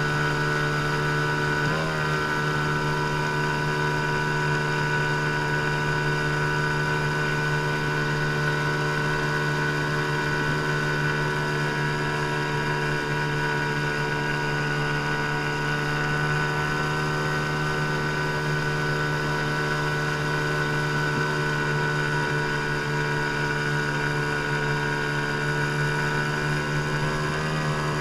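15-horsepower outboard motor running steadily at an even pitch, with brief wobbles in pitch about two seconds in and near the end.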